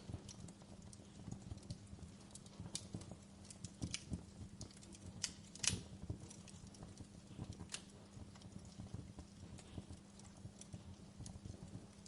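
Wood campfire crackling: irregular small snaps and ticks over a low rush of flame, with one louder pop a little before the middle. A faint steady low hum runs underneath.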